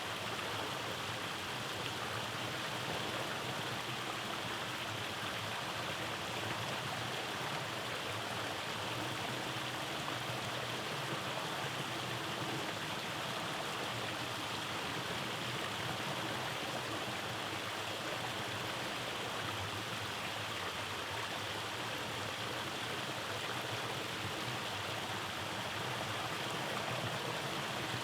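Rainforest stream running over small cascades: a steady, unbroken rush of flowing water.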